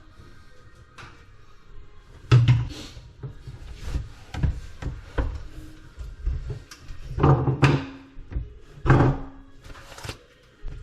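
A series of knocks and clunks from drain pipe, fittings and tools being handled, the loudest about two seconds in, twice around seven seconds and once near nine seconds, some with a short hollow ring.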